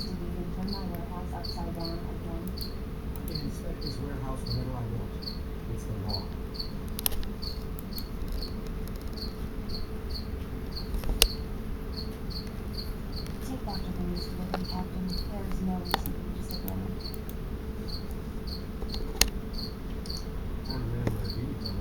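A cricket chirping steadily, about two short high chirps a second, over a low steady hum. A few sharp clicks come through.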